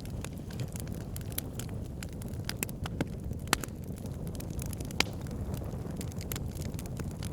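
Wood fire crackling: irregular sharp snaps and pops over a steady low rumble, with two louder pops about three and a half and five seconds in.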